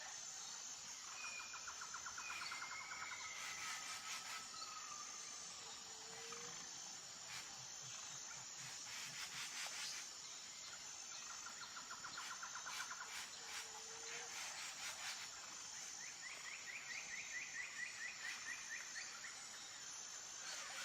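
Natural outdoor ambience: a steady high insect drone with birds calling over it, including several rapid trills and short whistled notes.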